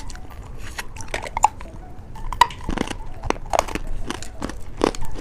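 Close-miked candy eating: scattered biting and crunching clicks with small mouth sounds.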